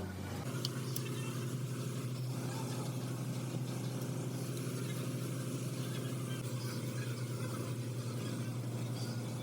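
Engine running at a steady speed, a constant hum whose pitch steps up slightly about half a second in and then holds.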